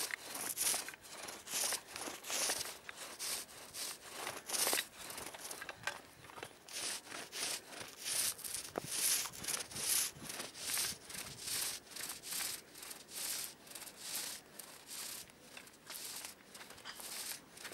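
A paint roller on a long handle rolling bitumen primer over a garage roof, a rhythmic series of rubbing strokes at about one to two a second.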